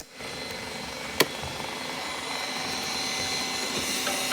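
Robot vacuum running with a steady whirring hiss, with a sharp click about a second in.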